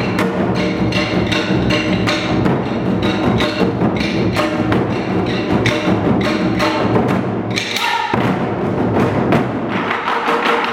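Ensemble of Korean moduk-buk barrel drums beaten with sticks in a fast, dense rhythm of deep strokes and sharp clicking hits. About eight seconds in, the deep strokes drop away for a moment.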